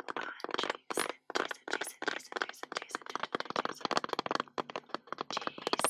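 Rapid, close-up ASMR trigger clicks and taps, many a second in an uneven stream, with brief pauses about one second in and again near the end.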